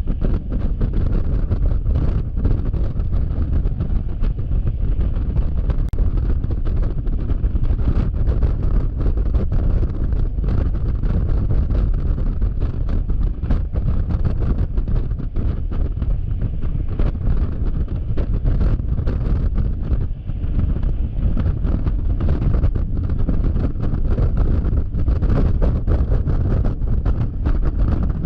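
Wind buffeting a GoPro action camera's microphone while riding a Yamaha XMAX scooter at highway speed, a steady deep rush with irregular gusts and pops throughout, the scooter's engine and road noise running underneath.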